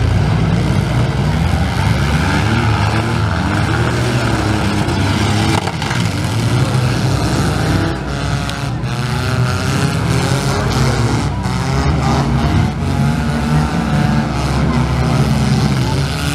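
Several compact demolition-derby cars' engines revving up and down at once, with a few short crashes of cars hitting each other about six, nine and twelve seconds in.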